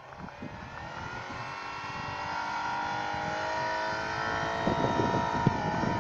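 Chevrolet Captiva's engine revving hard, the pitch climbing steadily and then held high as the wheels spin in deep snow. From about five seconds in, the crunch and spray of snow thrown by the tyres joins it.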